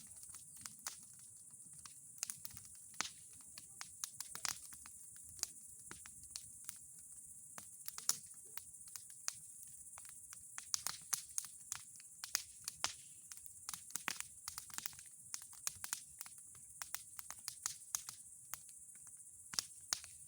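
Wood bonfire crackling: irregular sharp pops and snaps, in quick clusters at times, over a steady high hiss.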